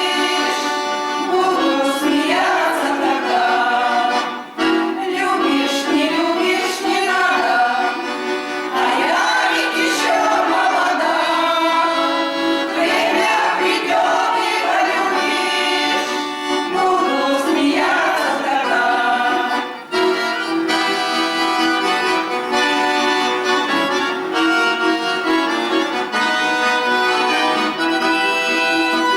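Accordion playing a folk-style tune with singing over it for most of the time; about two-thirds of the way in the voice stops and the accordion carries on alone.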